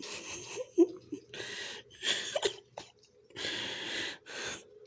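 A series of breathy puffs of air, about five, each lasting about half a second, with a few soft clicks between them.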